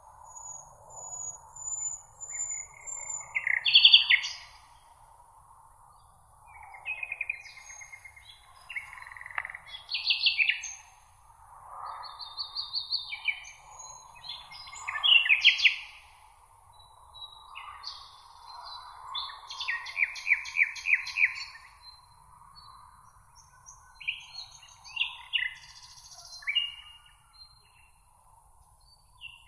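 Several songbirds singing in a meadow, overlapping short chirping and trilled phrases every second or two, over a steady high-pitched hiss.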